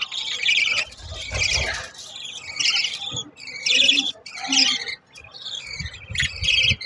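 Budgerigars chirping and chattering in quick warbling bursts, with brief low rumbles of handling or microphone noise in between.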